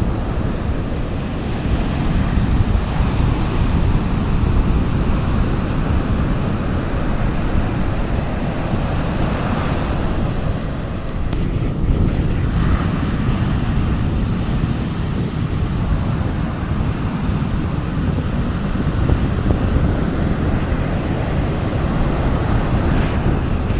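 Sea waves washing onto a beach: a continuous surf wash with a heavy low rumble, swelling a little in the middle.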